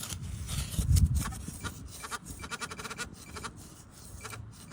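Metal detector beeping over a dig hole as the target is relocated: runs of short, rapid pitched beeps, densest around the middle. A low handling thump comes about a second in.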